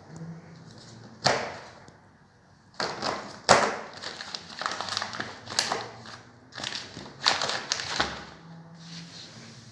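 Irregular knocks, clicks and rustling of things being handled during the unboxing of a dishwasher, with sharp knocks about a second in and at about three and a half seconds.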